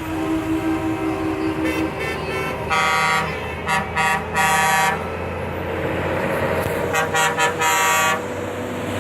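Truck horns honking in repeated blasts over the low rumble of running engines: a group of blasts from about three seconds in, short and longer ones, then a quick run of toots and a longer blast near the end.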